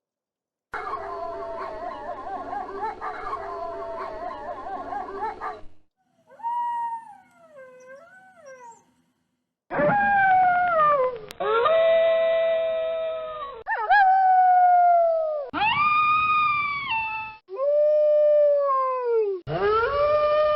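Wolves howling: a chorus of many overlapping howls for about five seconds, then a fainter wavering howl, then a run of long single howls one after another, each sliding down in pitch at its end.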